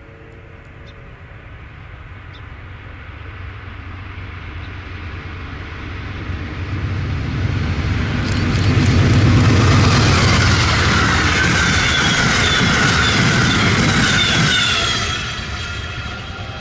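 A train passing by: its rumble and rail noise build steadily, stay loudest for about five seconds, then fall away near the end. Clicks come in about eight seconds in, and a high, wavering tone sounds over the loudest part.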